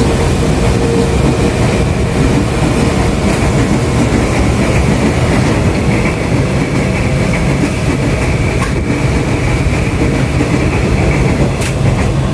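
Steady running noise inside a 205-series electric commuter train carriage in motion: a low rumble of wheels on rail, with a few light clicks from the track.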